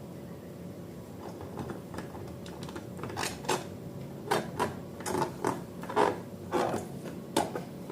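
Irregular light clicks and taps of small things being handled, sparse at first and coming more often from about three seconds in.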